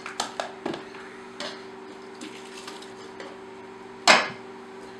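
Kitchenware clatter: a quick run of clicks and knocks from pot, lid and utensils, then one louder clunk about four seconds in. Under it is the steady hum of a running microwave oven.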